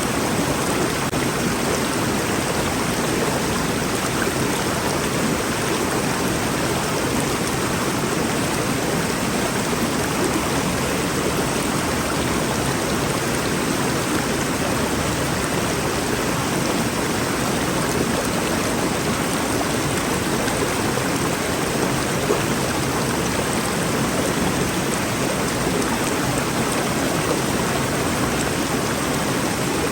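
Rainforest river flowing, a steady, unbroken rush of water.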